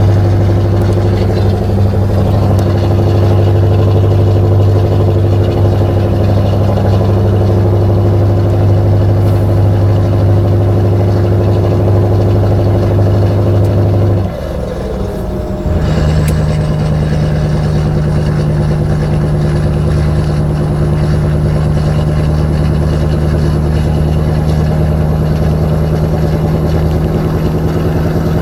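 Scania 143 420's 14-litre V8 diesel pulling steadily under load on an uphill climb. About halfway through, the sound dips briefly for a gear change, then the engine pulls on at a different pitch.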